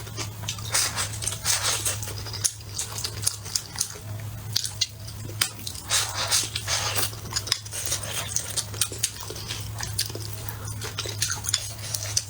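Close-miked eating: utensils clicking against dishes, with chewing and biting, many short irregular clicks and crunches over a steady low hum.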